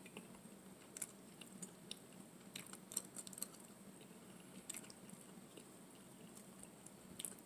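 Faint chewing of bow-tie spaghetti, with scattered small soft clicks.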